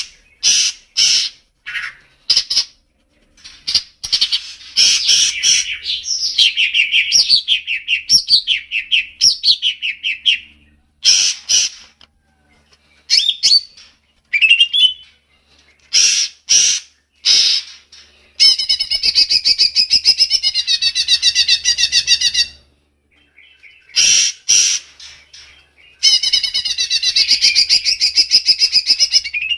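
A songbird singing: loud sharp chirps and whistled phrases, with two long rapid trills, one a little past the middle and one near the end, separated by short silences. It is a masteran recording, bird song played to caged songbirds for them to learn.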